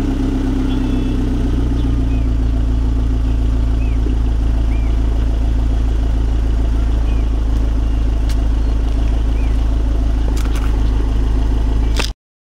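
1991 Toyota MR2 with a Flowmaster cat-back exhaust idling steadily with a deep, even exhaust note, then cutting off abruptly near the end.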